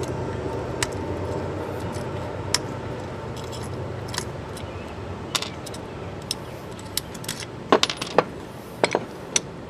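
Small metal parts clicking and clinking, the sound of bolts being handled and tried in a light's mounting bracket. The clicks come scattered, thickening in the last few seconds, over a steady low hum.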